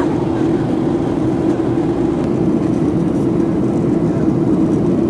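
Steady roar inside the cabin of a Boeing 737-700, its CFM56 jet engines and airflow running at an even level with a low hum underneath.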